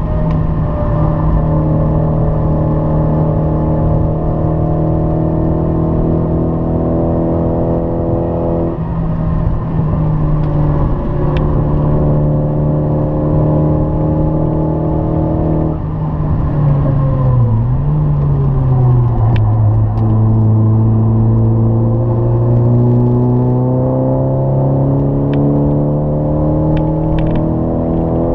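Nissan 200SX's turbocharged four-cylinder engine heard from inside the cabin at speed, mostly holding steady revs. There are brief breaks about 9 and 16 seconds in. After a dip in pitch near 17 seconds, the engine note settles lower and rises slowly toward the end.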